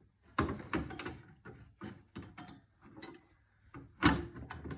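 Irregular clicks and knocks of computer parts being handled while a cable is connected inside a PC case, the sharpest knock about four seconds in.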